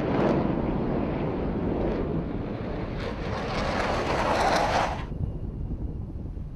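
Jet aircraft of the Black Eagles aerobatic team (KAI T-50B) roaring overhead during a display pass, the jet noise swelling and then cutting off suddenly about five seconds in. After that only a low wind rumble on the microphone remains.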